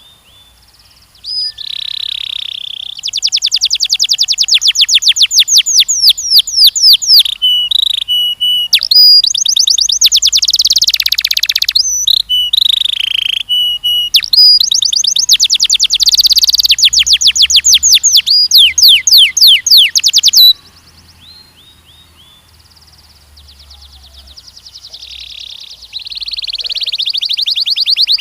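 Canary singing: long, fast rolling trills of rapidly repeated downward-slurred notes, pausing briefly between tours. The song stops suddenly about twenty seconds in, and softer phrases build up again near the end.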